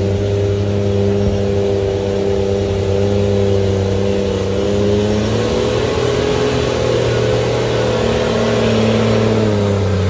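Engine of an off-road 4x4 running steadily as the vehicle crawls slowly along a muddy trail. Its pitch dips slightly and comes back up about halfway through, then climbs a little near the end.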